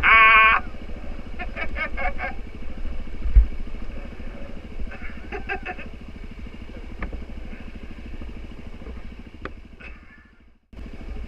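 Suzuki DR-Z400 single-cylinder motorcycle engine running steadily at low revs, with a single loud thump about three and a half seconds in. The sound drops out for a moment near the end.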